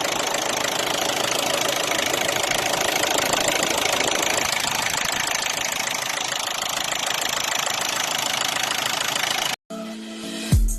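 Isuzu 4JG2 four-cylinder diesel engine running steadily at idle with a diesel knock. It cuts off suddenly near the end, and music begins.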